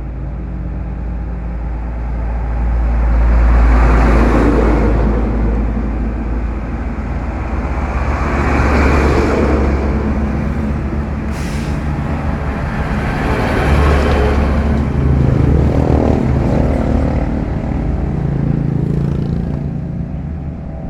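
Diesel truck engine running, its sound swelling louder and easing off several times, about every four to five seconds.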